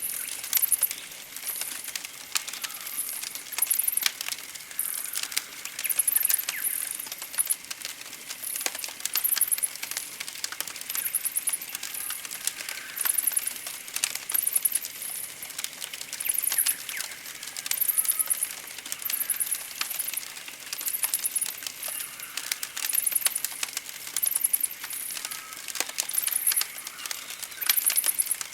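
Campfire crackling and popping with many sharp snaps, under high-pitched chirping that repeats about once a second, with fainter bird calls.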